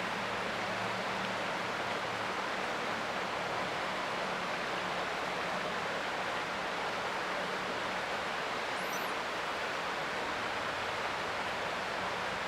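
Creek water running steadily, a constant even hiss. A faint high chirp comes once, briefly, about nine seconds in.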